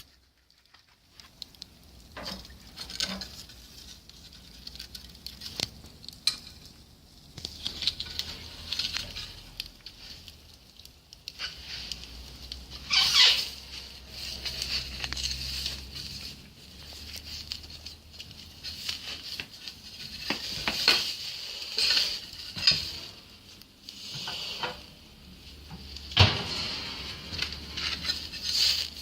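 Fire crackling: irregular snaps and pops over a faint hiss, with a few louder snaps spread through.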